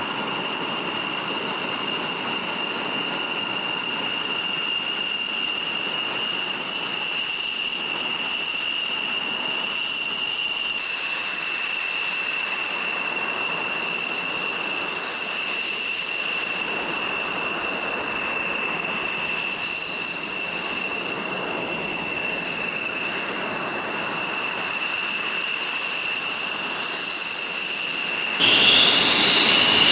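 F-16 fighter jet's turbine engine running with a steady high whine over a rushing hiss. The sound jumps abruptly louder near the end.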